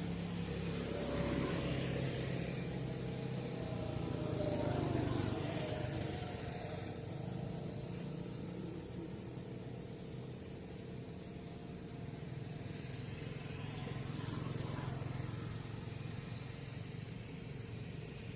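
Motor vehicle engines running over a steady low hum, swelling louder a few times as vehicles pass.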